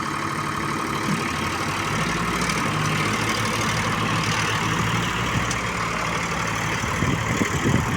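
Tractor diesel engine running steadily, a little louder from about two seconds in, with a few stronger low surges near the end.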